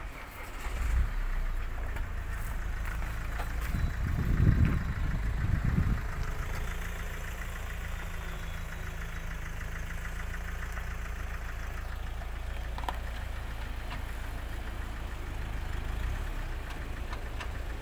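Mahindra XUV500 engine starting about a second in, revving up briefly between about four and six seconds in, then settling to a steady idle.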